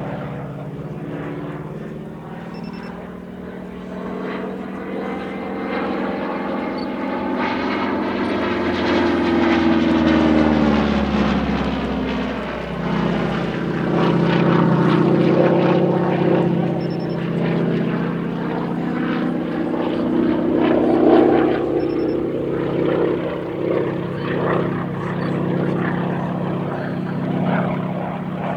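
Nine-cylinder Pratt & Whitney R-1340 radial engine and three-blade propeller of a modified North American T-6 in aerobatic flight. The engine note rises and then falls away around a third of the way in, then grows louder again as the aircraft comes back past.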